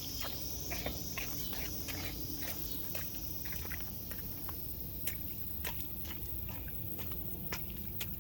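Footsteps and handling noise: scattered light clicks and crunches at an irregular pace over a low rumble.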